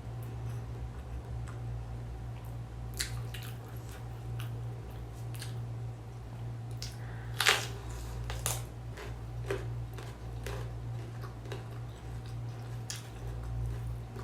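Close-up eating sounds of a mixed-rice meal: chewing and squishing with scattered sharp clicks, the loudest about seven and a half seconds in, over a steady low hum.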